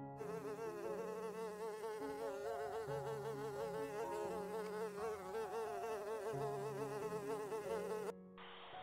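A bee buzzing, a continuous hum whose pitch wavers quickly up and down, cutting off abruptly near the end.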